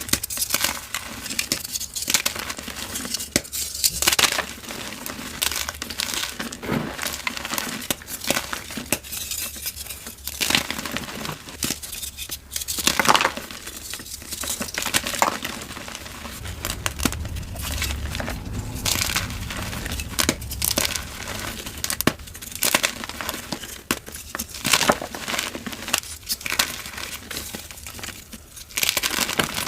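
Dyed gym chalk being crushed and crumbled: continuous dry crackling with a louder crunch every few seconds.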